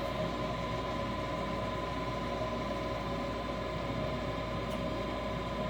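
Furnace draft inducer fan motor running with a steady hum and a faint whine. The igniter is glowing and the gas valve has power, but no burner ignition is heard: the two-stage gas valve has failed and does not open.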